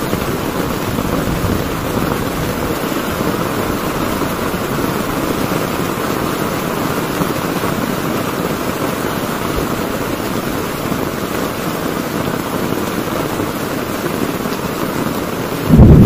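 Heavy rain falling steadily on a tent. Just before the end, a sudden, much louder low rumble breaks in.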